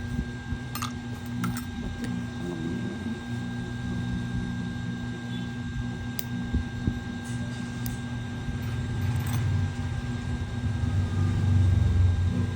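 A steady mechanical hum with a constant high whine, broken by a few light clicks. The low hum grows louder near the end.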